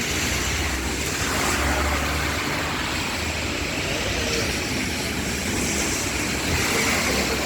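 Steady rushing noise of rain, with a low rumble underneath.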